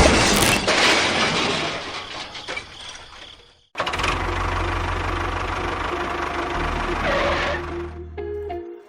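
A loud burst of noise that fades away over about three seconds, then, after a brief cut, a small motor running steadily with a low hum that stops near the end.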